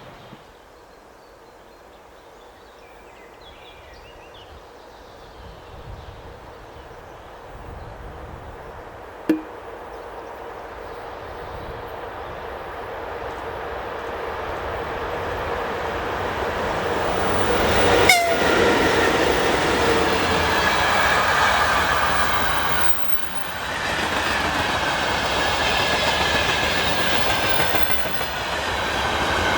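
An electric train approaching and then running past close by, growing steadily louder as it nears, with a brief sharp sound about nine seconds in. From about eighteen seconds on it is loud and steady, with wheels on the rails and a high whine.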